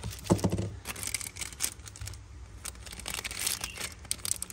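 Crinkling and rustling with scattered clicks and taps, the loudest about a third of a second in: handling noise as Zippo lighters are picked up and handled.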